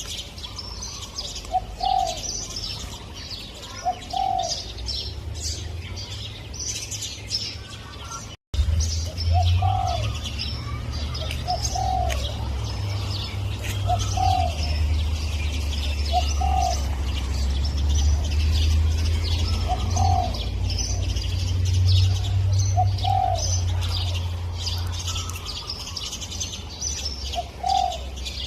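Spotted dove cooing: short low coo notes repeated every two to three seconds, over a steady chorus of high chirps from small birds. A brief dropout a little over eight seconds in, after which a low rumble runs under the birds.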